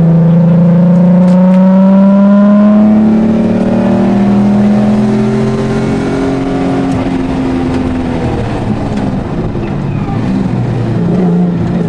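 Rally-prepared Jaguar XJ6's straight-six engine heard from inside the cabin under load, its pitch climbing steadily for the first few seconds as it accelerates. It eases off and drops in pitch past the middle, then picks up and climbs again near the end.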